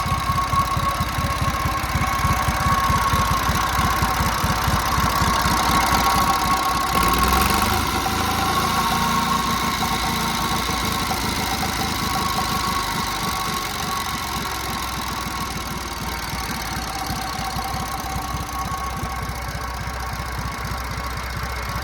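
1956 JAP Model 55 824 cc TVO stationary engine running steadily, driving a 5 kW generator, with a rapid even beat. About seven seconds in its sound changes and it runs a little quieter after that.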